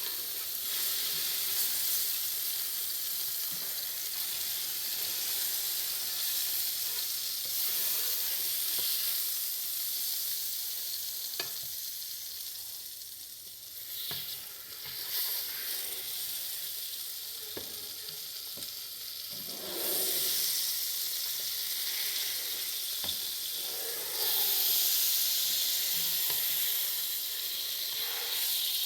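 Food sizzling in a hot frying pan: a steady hiss with a few scattered clicks, growing louder about 20 seconds in and again a few seconds later.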